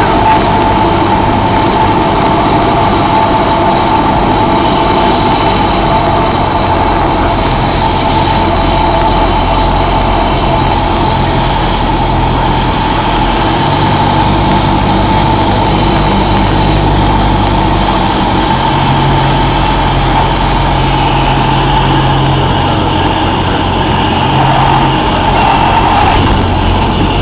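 Cessna 172's piston engine and propeller running steadily and loud, its low note shifting slightly now and then.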